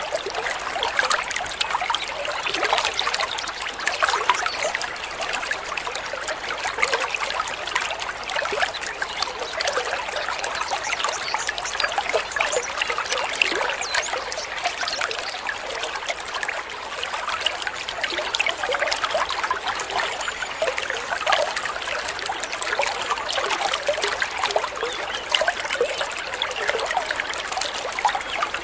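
Running water babbling and trickling steadily, like a small stream over stones.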